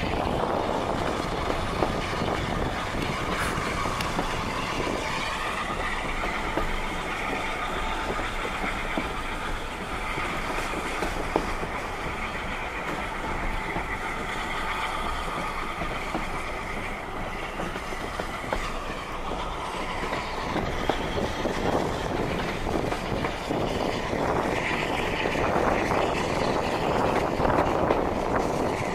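Railway train running along the track: a steady rumble of wheels on rail, with a few sharp clicks.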